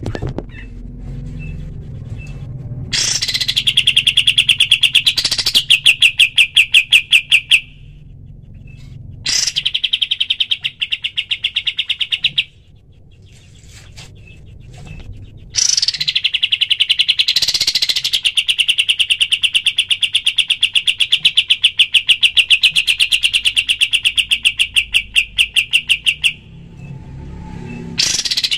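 Kapas tembak songbird singing its rapid-fire "tembakan" song: long, fast trills of the same high note repeated many times a second, each bout opening with a higher rising note. There are four bouts, with pauses of a second or more between them.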